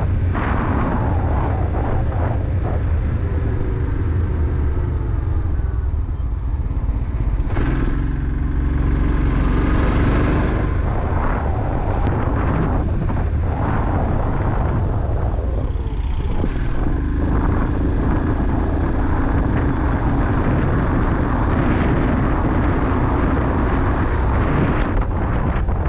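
Motorcycle engine running under way, with wind noise on the microphone. The engine note rises and falls in pitch several times and holds steady for stretches.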